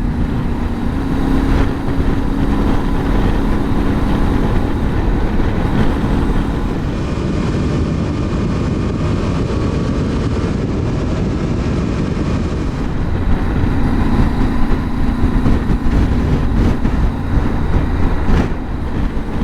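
Yamaha Ténéré 700's parallel-twin engine running at a steady cruising speed, mixed with constant wind and road rush. The engine's steady drone stands out in the first few seconds and again in the last several, with mostly wind rush in between.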